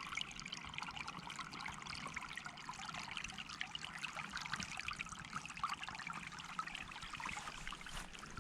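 Small stream trickling and babbling over stones, a steady patter of small splashes.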